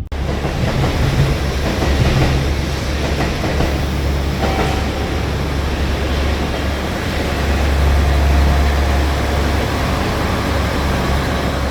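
A train running on the rails: a steady heavy rumble with dense rolling noise that swells a little about eight seconds in.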